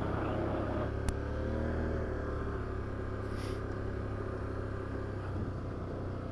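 Can-Am Outlander 850 ATV's V-twin engine running steadily on the trail, its pitch dipping and rising slightly about two seconds in. A sharp click comes about a second in, and a brief hiss about halfway through.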